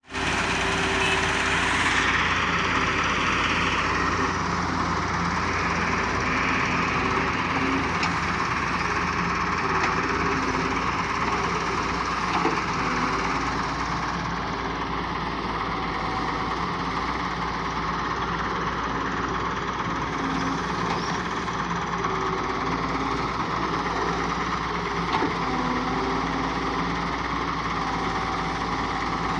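Diesel engine of a Doosan DX140W wheeled excavator running steadily, its note shifting a little as it works, with a few short knocks.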